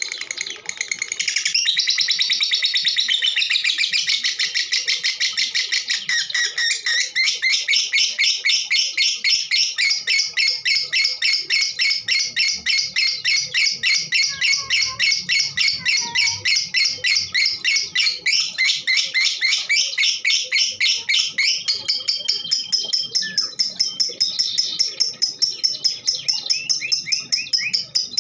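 Female lovebird chattering in a long, unbroken run of rapid, high-pitched chirps, after a brief pause in the first second or so.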